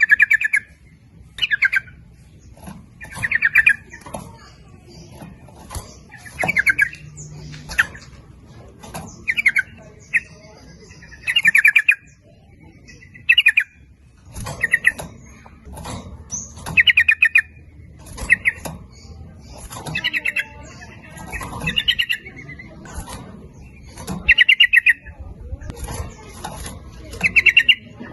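Yellow-vented bulbul (trucukan) song: short, rapid bubbling phrases that repeat every second or two, given as a lure call to draw other bulbuls into calling.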